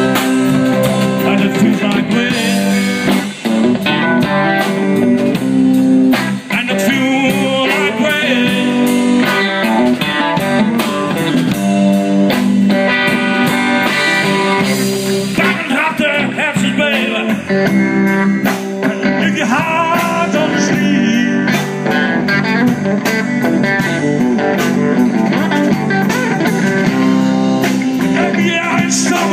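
Blues-rock band playing an instrumental passage, with a lead guitar over a steady bass and drums backing.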